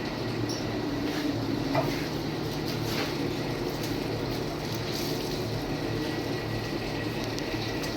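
Steady low mechanical hum under an even rushing noise, with a few faint clicks.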